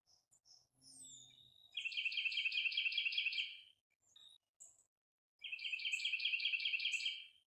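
A songbird singing two long runs of quickly repeated chirped notes, about five notes a second, each run lasting about two seconds with a pause between. Other birds give short scattered chirps around them.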